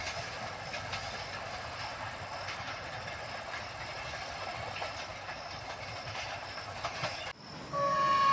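Steady running noise of a passenger train on the rails as it moves away down the track, with faint wheel clicks. This cuts off about seven seconds in, and a locomotive horn begins: one loud, sustained, multi-tone blast.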